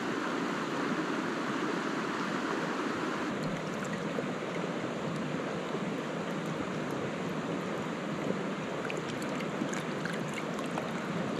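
Steady rush of flowing river water, with a few faint ticks near the end.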